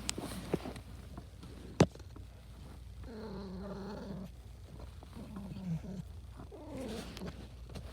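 Domestic cat purring and giving low, drawn-out contented vocal murmurs, three of them, each about a second long, the sound of a happy cat. A single sharp click about two seconds in is the loudest sound.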